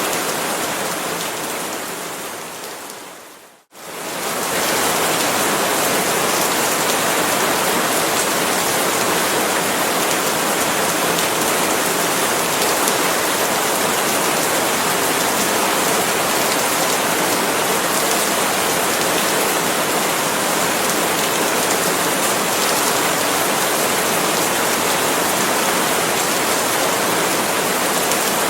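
Steady, dense rain falling on palm leaves. A few seconds in, it fades down to near silence and swells back up over about a second.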